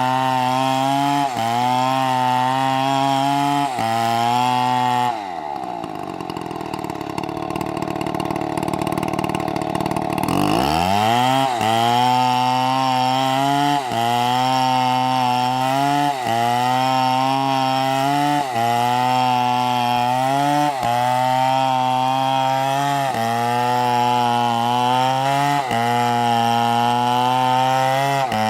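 Two-stroke chainsaw running at high revs with brief regular dips in pitch. About five seconds in, the engine drops toward idle; about five seconds later it revs back up to full speed.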